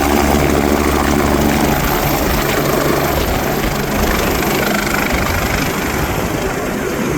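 Helicopter running loud and steady. A low hum of several steady tones gives way after about two and a half seconds to a rougher rushing noise.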